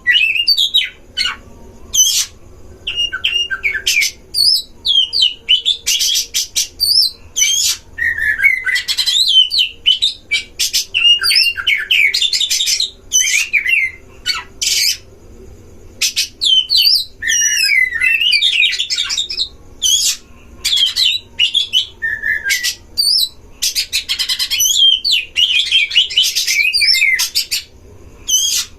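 Oriental magpie-robins (kacer) singing against each other in a territorial duel: rapid, varied whistled phrases that swoop up and down, mixed with harsh rasping notes, nearly continuous with only short pauses.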